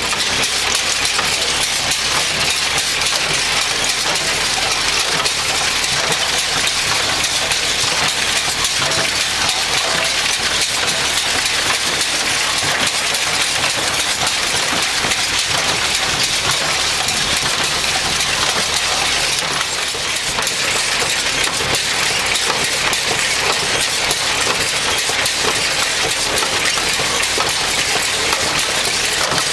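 Massey Ferguson 135 tractor engine running steadily while pulling an MF 20 square baler, with a strong hiss over it. There is a slight change in the sound about two-thirds of the way through.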